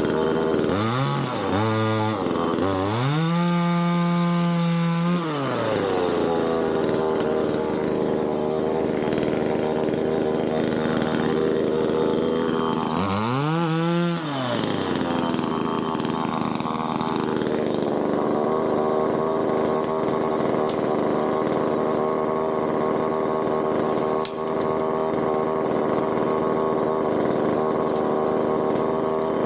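Small two-stroke gasoline chainsaw engine revved up and down several times, held at high revs for about two seconds, revved again, then running steadily at one speed.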